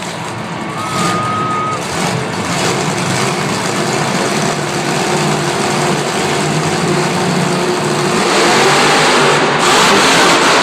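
Monster truck engines running and revving hard in an arena, a dense, continuous racket that grows louder about eight seconds in. A brief whistle-like tone sounds about a second in.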